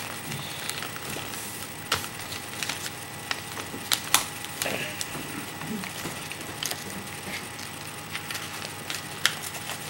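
A sheet of paper being folded and creased by hand: scattered sharp crackles and taps over a quiet rustle.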